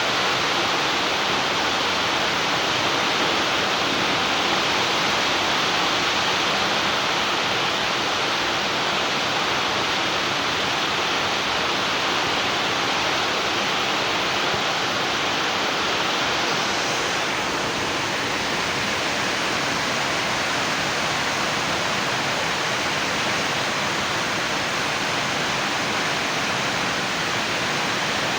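Steady, even hiss with no distinct sounds standing out of it, and a slight change in its upper part about 17 seconds in.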